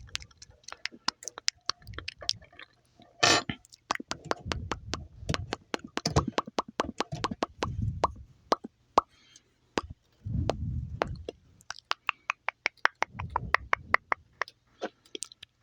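Mouth sounds: a rapid, irregular string of wet clicks and smacks, several a second, with short low muffled rubbing sounds between them and a brief hissing burst a little over three seconds in.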